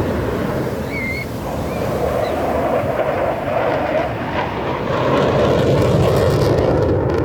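Jet aircraft engine noise, a steady rushing sound that builds louder over the last few seconds, with wind on the microphone.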